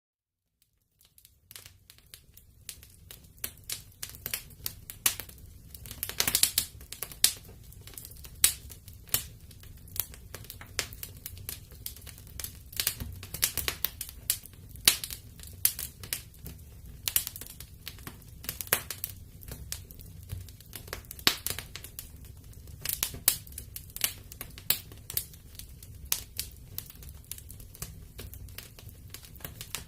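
Wood fire crackling in a fireplace: irregular sharp pops and snaps over a low, steady rumble, fading in over the first second or two.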